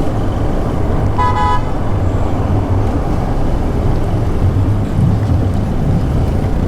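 Bajaj Pulsar motorcycle running along a highway, with steady wind rumble on the helmet camera's microphone; a vehicle horn honks once, briefly, about a second in.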